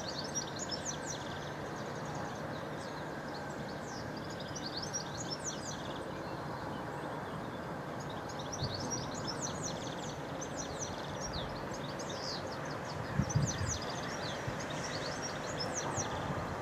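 Birds chirping and trilling over the low, steady drone of an approaching Class 142 Pacer diesel railbus, which grows a little louder in the second half. A few low thumps come about thirteen seconds in.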